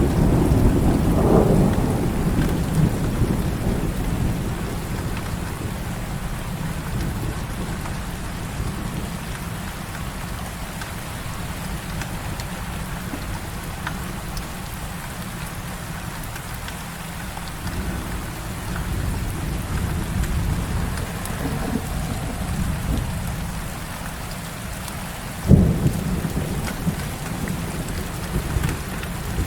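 Heavy rain falling steadily with thunder: a low rolling rumble dying away over the first few seconds, and a sudden sharp thunderclap near the end that rumbles on.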